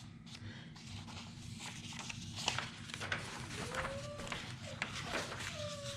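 Scrapbook paper and cardstock being handled and shuffled: a run of soft rustles and light taps, with a faint murmur from a voice twice in the second half.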